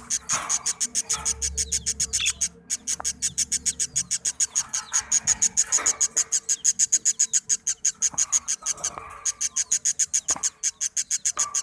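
Newly hatched baby birds chirping in a rapid, regular stream of short high-pitched peeps, about seven a second, pausing briefly twice.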